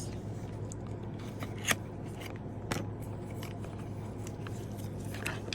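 Nail polishes and their packaging handled on a table: light scraping and ticking, with two sharp clicks a second apart near the middle, over a steady low hum.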